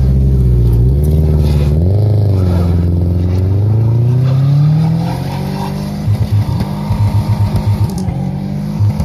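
Car engine revving, its pitch climbing and dropping several times, then from about six seconds in a rapid stutter of roughly five pulses a second.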